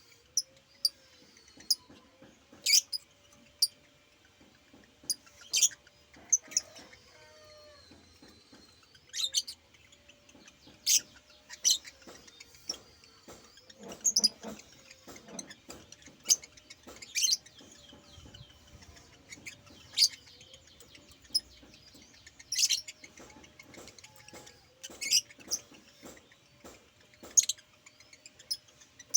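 A pet bird giving short, sharp high-pitched chirps at irregular intervals, roughly one every second or two.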